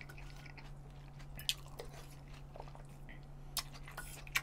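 A person chewing a mouthful of food, with a few short sharp clicks from the mouth or spoon, the loudest near the end.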